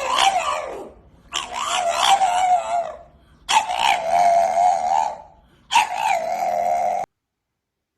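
A sleeping dog howling: a run of long, wavering howls of about a second and a half each with short breaks between, cutting off abruptly about seven seconds in.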